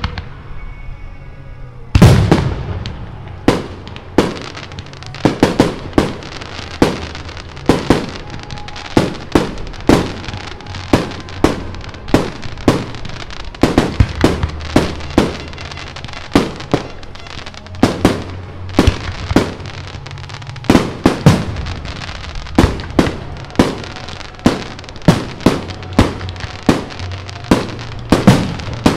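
Fireworks display: aerial shells bursting in quick succession, roughly two sharp bangs a second, starting with a loud burst about two seconds in.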